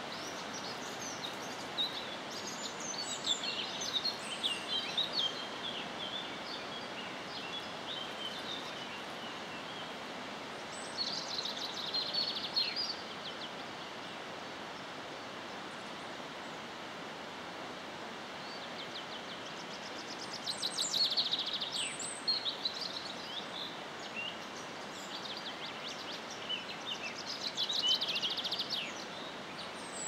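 Songbirds singing over a steady rushing background. A varied chattering song comes in the first few seconds, then a fast trill that ends in a downward flourish is repeated three times.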